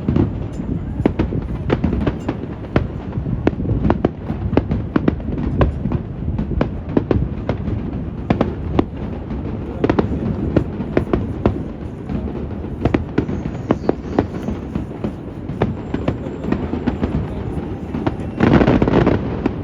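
Aerial fireworks bursting in rapid succession, many sharp cracks and bangs one after another, over a steady low rumble of wind on the microphone; a louder, longer burst comes near the end.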